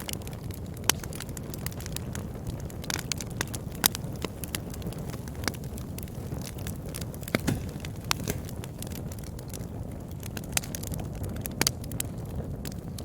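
Wood fire burning in a fireplace: a steady low rumble of flames with irregular sharp crackles and pops, a few louder ones standing out.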